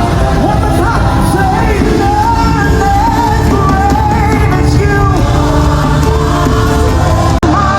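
Loud live worship music: a singing voice over a band with a steady bass line. The sound cuts out for an instant near the end.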